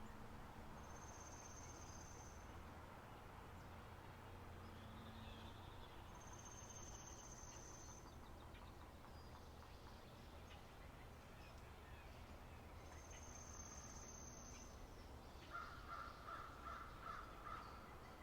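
Faint spring meadow ambience: three long, thin, high trills about six seconds apart, then a quick series of about six harsh bird calls near the end.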